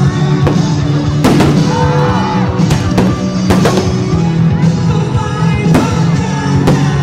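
Loud music mixed with fireworks bursting: sharp bangs come at uneven intervals, several of them around the middle.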